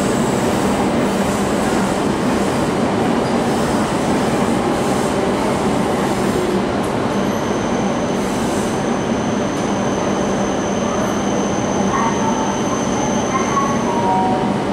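Shinkansen train running close by out of sight, a steady loud rumble with a constant low electric hum. A thin high whine joins about halfway through and stops near the end.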